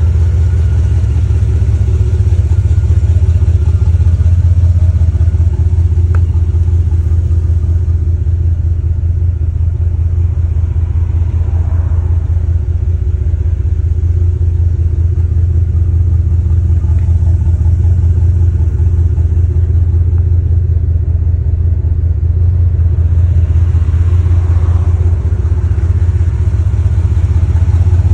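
1973 Buick Centurion's V8 idling steadily, a low, even exhaust note with no revving.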